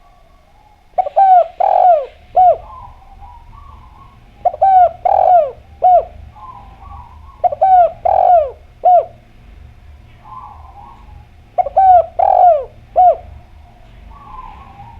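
Spotted dove (derkuku) cooing in full song: four phrases of three or four short, down-sliding coos, about every three seconds, with soft murmured notes between the phrases.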